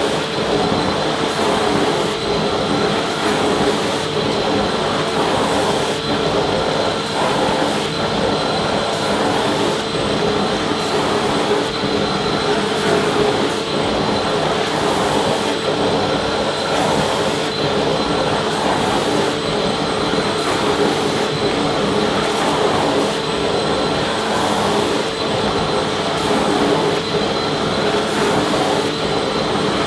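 Vacuum cleaner running steadily: a constant rushing hiss of air with an unchanging motor whine.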